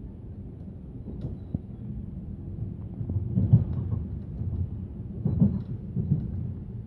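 Passenger train heard from inside the carriage, rolling with a steady low rumble as it runs through the station throat. Wheels clatter over points and rail joints in two louder bunches, about three seconds in and again about five seconds in.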